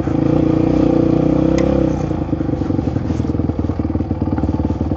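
Enduro dirt bike engine running at steady revs, then dropping about two seconds in to a slower, pulsing chug at low revs.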